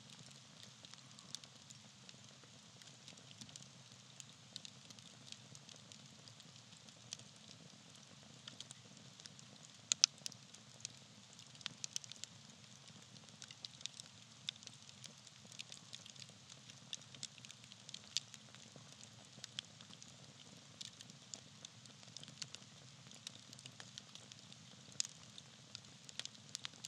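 Small campfire of burning tree bark, crackling and popping with frequent short sharp snaps over a faint steady hiss; the loudest pair of pops comes about ten seconds in.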